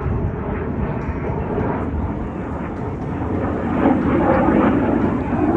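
Jet noise from the BAE Hawk display jets' Adour turbofans as the formation flies over: a steady rushing roar that swells louder about three and a half seconds in.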